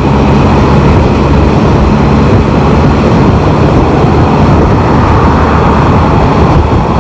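Can-Am Spyder riding at dual-carriageway speed: wind rushing over the microphone, loud and steady, with the engine's even drone underneath that is clearer for the first three seconds.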